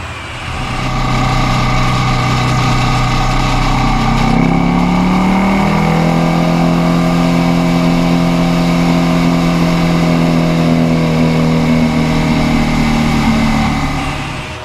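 Motorcycle engine running under load, its pitch rising about four to six seconds in and then holding steady before fading near the end.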